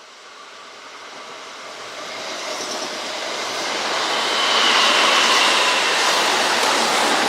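Kintetsu electric train approaching, its running noise growing steadily louder over about five seconds and then holding at full level, with a high whine from about four seconds in.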